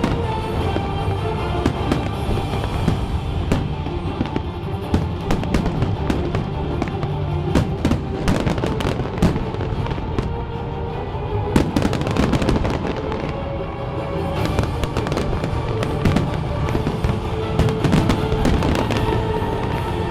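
Fireworks going off in rapid succession, sharp bangs and crackling throughout, over music playing at the same time.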